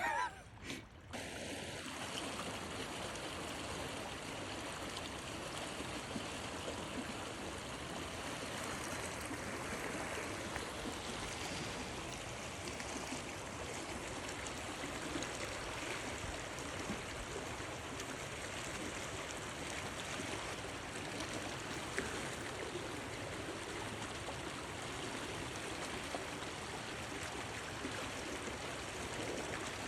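River flowing: a steady, even rush of running water.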